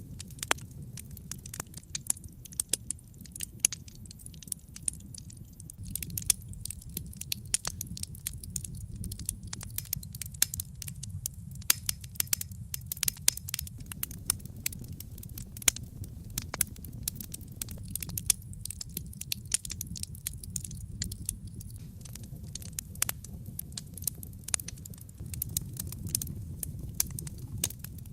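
Wood fire burning in a fireplace: a steady low rumble of the flames with constant crackling and frequent sharp pops of the burning logs.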